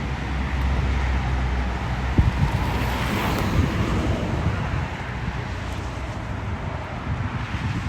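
Wind buffeting the microphone outdoors, a steady low rumble with a hiss above it and a single thump about two seconds in.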